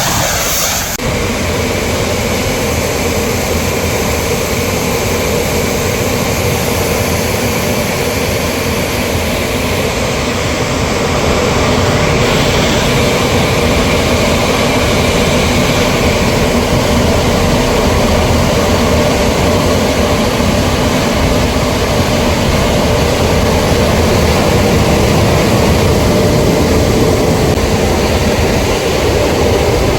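Pressure washer jet spraying steadily, a continuous hiss over a machine hum. It gets a little louder about twelve seconds in.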